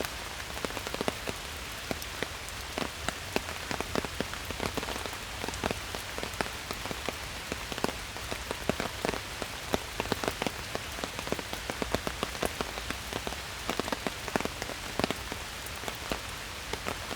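Steady rain falling in a forest, an even hiss with many individual drops ticking and pattering close by.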